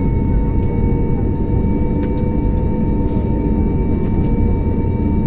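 Airliner cabin noise on the ground after landing: a steady low rumble with a constant whine of several fixed tones.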